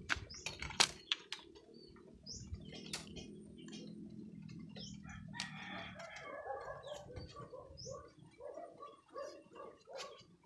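Sharp clicks of gear being handled in the first second or so, followed from about halfway through by a bird calling in a run of short repeated notes.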